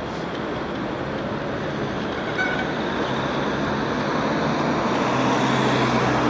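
Street traffic noise around a rider on the road, with the low hum of a nearby motor vehicle growing louder over the second half.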